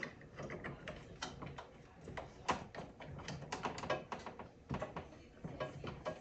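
Irregular clicks and knocks of plastic and metal parts being handled while a replacement blower motor and fan are fitted inside a mini-split air handler.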